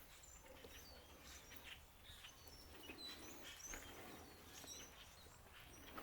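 Near silence with faint, scattered bird chirps: short high tweets at irregular intervals.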